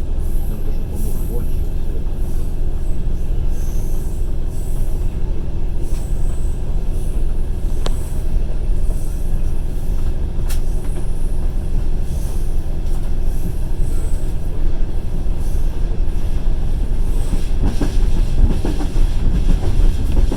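Passenger train running along the track, heard from inside a carriage: a steady wheel-and-rail rumble with occasional sharp clicks, and a run of rail-joint clacks near the end.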